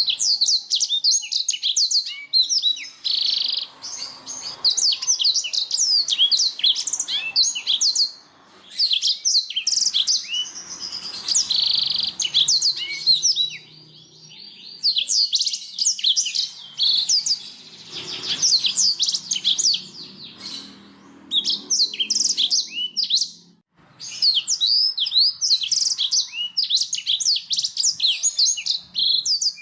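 Domestic canary singing: long phrases of fast, high chirps and trills, broken by a few short pauses.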